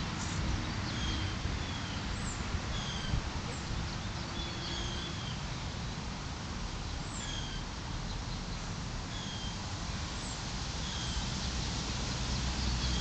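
Garden birds calling, short falling chirps repeated roughly once a second, over a steady low rumble.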